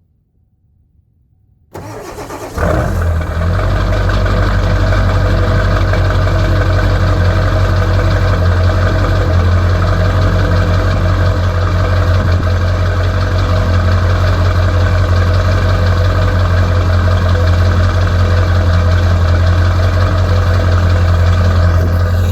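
1996 Ford F350's 7.3 L Powerstroke turbo-diesel V8 starting cold: about two seconds in it cranks briefly, catches within a second, and settles into a loud, steady idle. It is a cold start on worn glow plugs with the block heater not plugged in.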